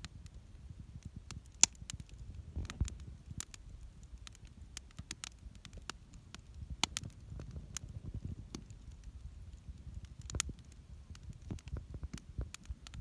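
Wood campfire crackling in a fire pit: irregular sharp pops and snaps, the loudest about a second and a half in, over a low rumble.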